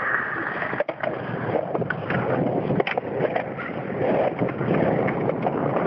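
Skateboard wheels rolling across wet concrete, a steady rumbling hiss with a few clicks and knocks from the board.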